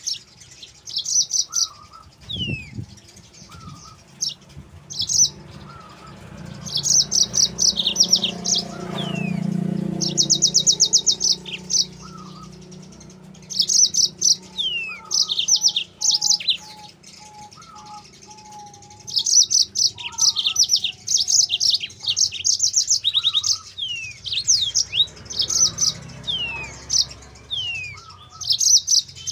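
Mozambique canary (yellow-fronted canary) singing vigorously in short, rapid bursts of high trills and chirps, with quick down-slurred notes between phrases. A faint low hum sits underneath.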